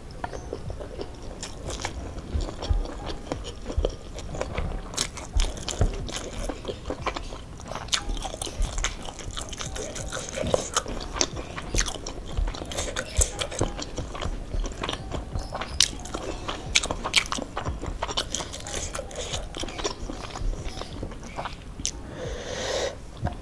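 Close-up chewing and crunching of mouthfuls of rice with crispy fried crumbs, eaten by hand, with many small sharp crisp clicks. A short breathy rush comes near the end.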